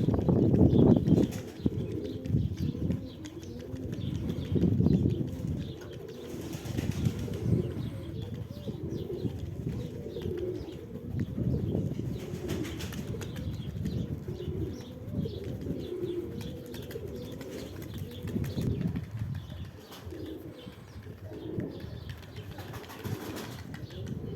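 Sverdlovsk high-flying pigeons cooing, with now and then the flapping of wings.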